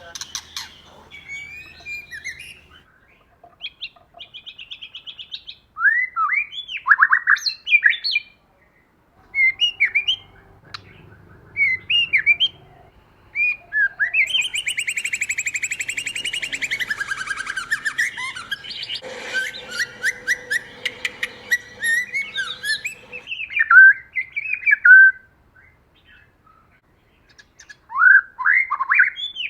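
White-rumped shama singing: varied phrases of clear whistles and quick rising notes with short pauses between them, and a long unbroken trill about halfway through.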